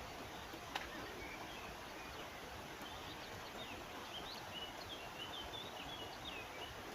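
A bird singing a run of short, high chirps and whistles from about a second and a half in, over a steady rush of river water, with a single sharp click about a second in.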